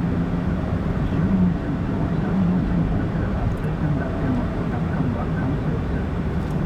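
Car driving along a road, heard from inside the cabin: a steady low drone of engine and tyre noise that wavers slightly in pitch.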